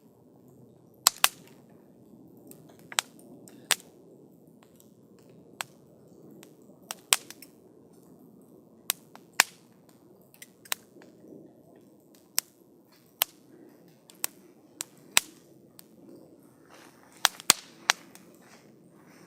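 Campfire of burning wood crackling: sharp, irregular pops and snaps, some in quick pairs, over a faint low rush of the flames.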